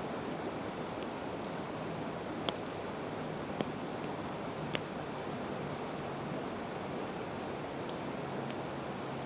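Campfire of split evergreen wood crackling, with a few sharp pops, over a steady rushing background of river water. A cricket chirps regularly, about twice a second, through most of it.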